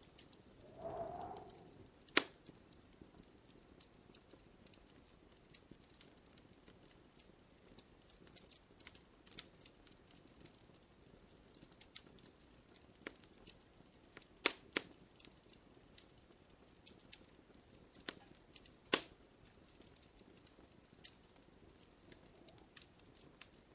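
Wood fire crackling in a fireplace: scattered sharp pops and snaps over a faint steady hiss. The loudest pops come about two seconds in, near the middle and a few seconds before the end.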